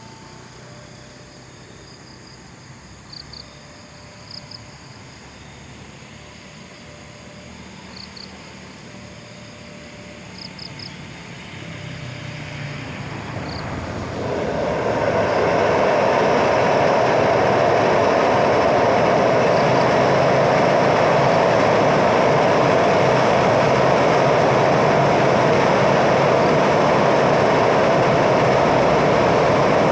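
A train approaches and then runs across a railway bridge: a steady rumble builds from a quiet start and turns loud and even about halfway in, staying that way. Faint short chirps are heard in the quiet first part.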